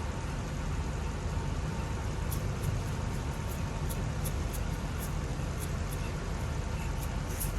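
Steady low rumble of a tractor-trailer's engine idling, with faint light ticks over it.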